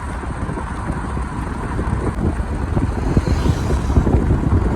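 Wind buffeting the microphone on a moving vehicle, over a low road and engine rumble, growing a little louder toward the end.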